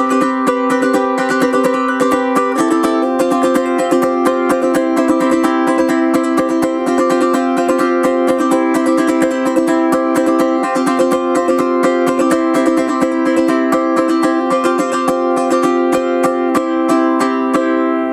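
Anuenue UT214 Cedar Bird tenor ukulele (cedar top, Indian rosewood back and sides, high-G nylon strings) strummed fast and steadily. One open-string note drones underneath while the chords change every few seconds.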